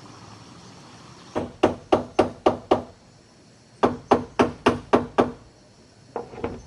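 Rapid hard knocks, about four a second, in two runs of six strikes and a short pair near the end.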